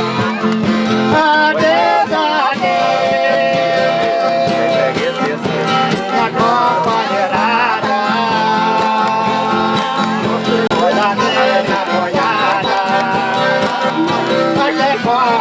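Live folk music on a button accordion with plucked strings, the accordion holding long notes over a steady strummed rhythm.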